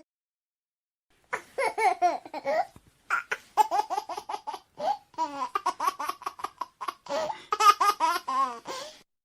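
A baby laughing in quick, high-pitched bursts, starting about a second in and stopping just before the end.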